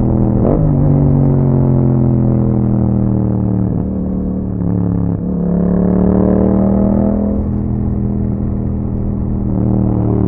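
2021 Yamaha MT-07's 689 cc crossplane parallel-twin engine through an Akrapovic exhaust, running under way: revs rise sharply about half a second in, then fall steadily. A short dip in the note comes about five seconds in, then the revs climb again and ease off near the end.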